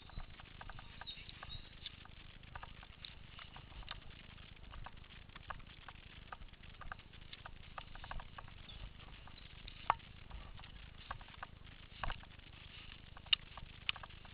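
Faint, irregular crackling and clicking, like dry leaves and twigs being stepped through in forest undergrowth, with a few sharper snaps in the second half.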